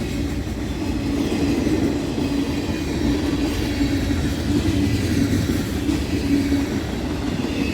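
Norfolk Southern freight train's cars rolling past, a steady rumble of steel wheels on the rails with a constant hum.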